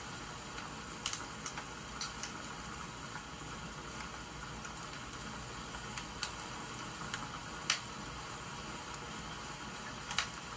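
Wood fire crackling: scattered sharp pops at irregular intervals over a steady hiss of rain.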